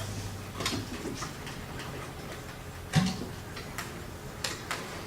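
Irregular light taps and clicks of a pen on an interactive whiteboard screen, with one louder knock about three seconds in.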